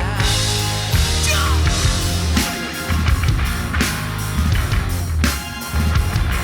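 Rock band playing an instrumental passage, with a drum kit keeping a steady beat of snare and cymbal hits over a heavy bass line.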